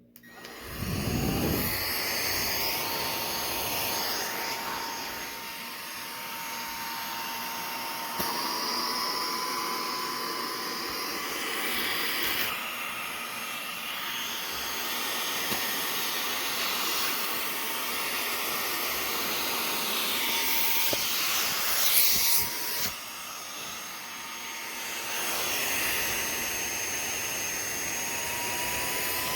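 Cordless handheld car vacuum switched on, its small motor spinning up over about a second to a steady high whine over a rush of air. The airflow noise changes level a few times as it runs.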